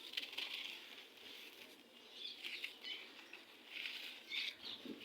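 Gritty red sand crumbling and crunching, a dense crackle of fine grains in about three bursts.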